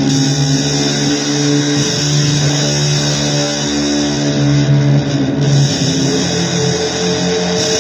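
Heavily distorted electric guitar playing blues-style noise, holding long notes that shift pitch every second or so over a dense wash of fuzz.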